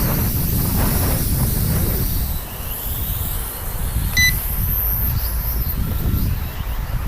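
Wind buffeting the microphone in a steady low rumble, with a single short electronic beep about four seconds in.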